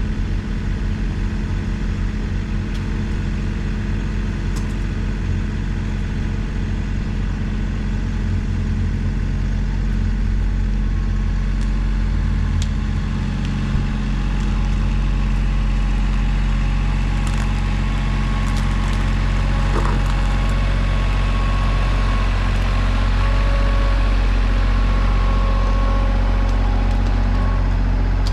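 An engine running steadily at a low, even idle, with a few light knocks over it.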